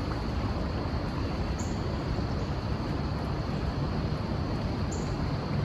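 Steady low rumble of outdoor background noise, with two brief faint high chirps about a second and a half in and again about five seconds in.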